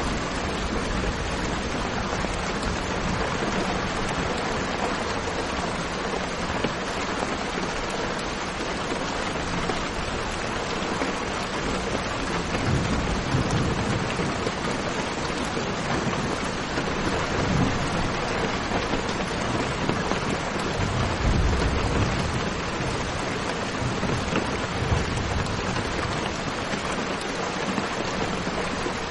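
Steady rain falling, with low rumbles of thunder a couple of times in the middle.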